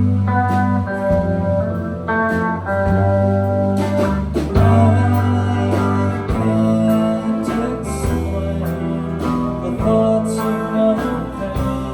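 Live band music: a guitar-led song with a blues and country feel, with sustained notes over a steady beat.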